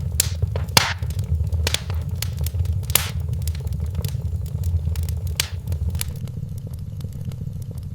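Wood fire crackling in a fireplace: sharp pops and snaps over a steady low rumble. The pops come thick for the first six seconds or so, then thin out.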